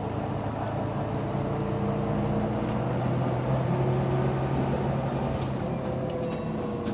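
Volvo B9TL double-decker bus's nine-litre six-cylinder diesel engine running under way, heard from inside the bus, with a steady rumble; its tone shifts about three seconds in. A brief high ringing sound comes near the end.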